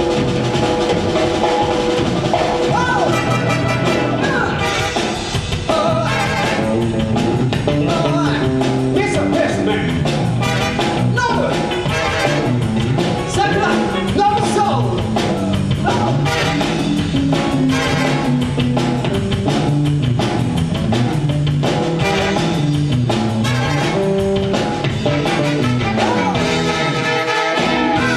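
Live band music at full volume: an upbeat number with a steady beat and a bass line stepping up and down through the notes.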